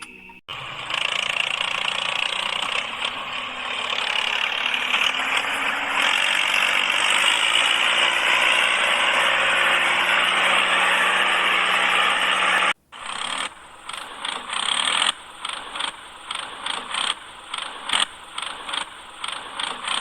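A small motor whirs steadily for about twelve seconds and cuts off suddenly. After it comes irregular clicking and rattling from a small mechanism.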